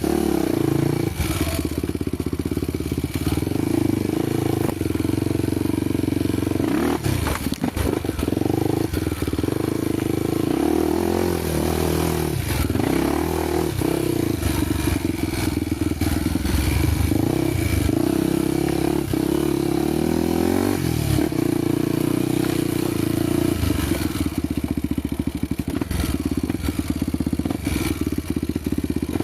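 Honda motorcycle engine running on a dirt trail, its revs rising and falling again and again, with knocks and clatter from the bike going over rough ground.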